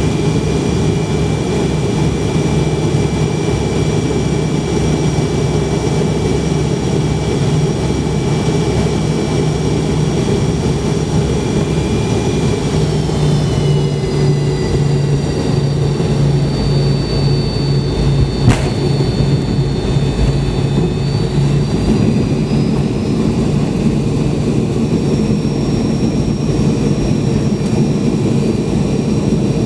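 Cabin noise of a McDonnell Douglas MD-82 near its rear-mounted Pratt & Whitney JT8D turbofans: a steady rumble with a high engine whine. The whine falls in pitch about halfway through, a single sharp thump comes about two-thirds in, and the whine and rumble then build again.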